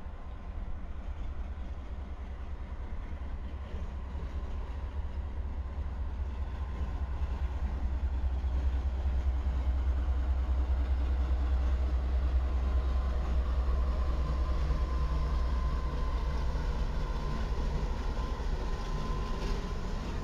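Freight train passing slowly, its diesel-electric locomotives giving a heavy, steady low rumble that grows louder through the first half and then holds. A faint steady whine comes in about two-thirds of the way through.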